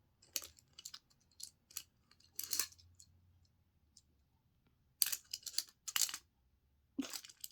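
Small plastic toys being handled and moved on a hard surface: scattered light clicks and short scrapes with quiet gaps between, a longer scrape about two and a half seconds in, and a denser cluster of clicks from about five to six seconds.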